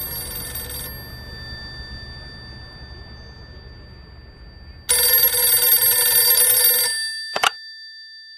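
Landline telephone bell ringing: the end of one ring, a pause of about four seconds, then a second ring of about two seconds. A sharp click follows as the receiver is picked up.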